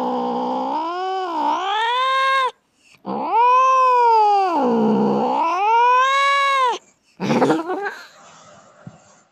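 A street cat yowling for food in long drawn-out meows, each sagging in pitch and swinging back up: one ends about two and a half seconds in, a second runs from about three to nearly seven seconds, then a short rough cry follows.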